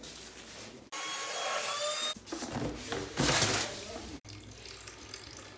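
Water rushing through household plumbing, with a thin whistling tone over it at first, then a louder surge of rushing about three seconds in. It starts and stops abruptly several times.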